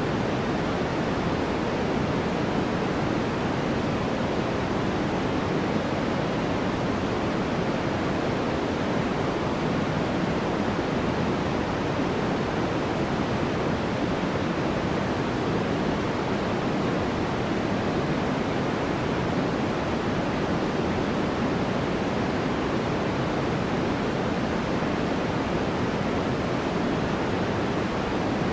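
Steady sleep-aid white noise: an unchanging, even hiss weighted toward the lower pitches, with no breaks or events.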